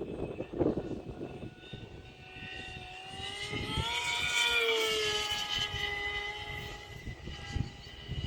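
A T-750 radio-controlled model airplane's motor whining as it flies past, growing louder and slightly higher in pitch, then dropping in pitch and fading after the middle. Wind buffets the microphone throughout.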